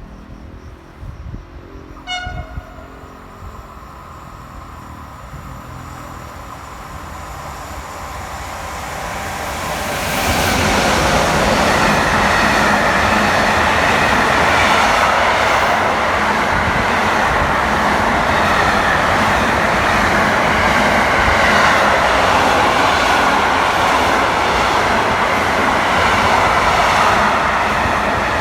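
A train horn gives one short toot about two seconds in. Then an electric-hauled train approaches and passes through the station at speed: a rising rush of wheels on rails that holds loud and steady from about ten seconds on.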